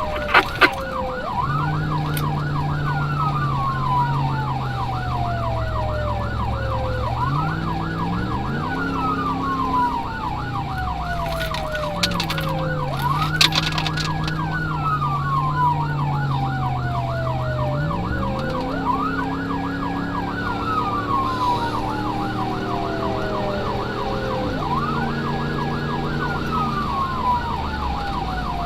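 Emergency vehicle sirens running code 3: a fast yelp warbling continuously, together with a slow wail that rises, holds briefly and falls about every six seconds. A few sharp clicks sound near the start and around the middle.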